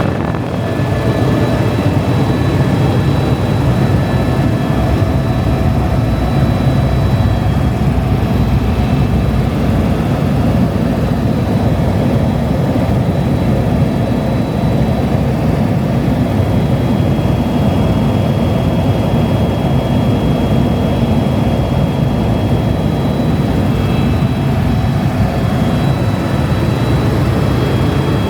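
Helicopter in flight heard from the cabin: a loud, steady drone of rotor and turbine, with a faint high whine above it.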